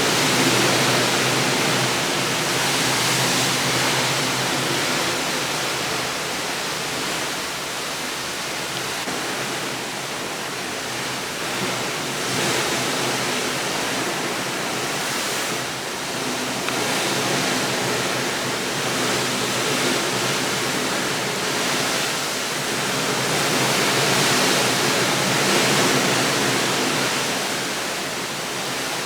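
A steady rushing noise that swells and eases slowly every several seconds, over a faint low hum.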